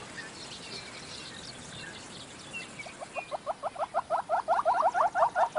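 Wild bush ambience: faint, scattered high chirps, then from about halfway a rapid, steady run of short rising chirps, around eight a second, from a calling animal.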